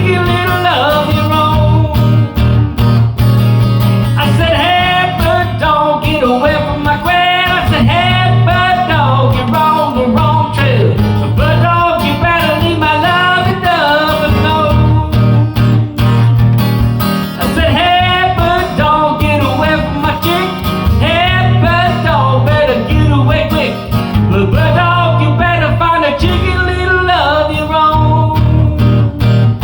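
Country-style song: a voice singing over guitar accompaniment.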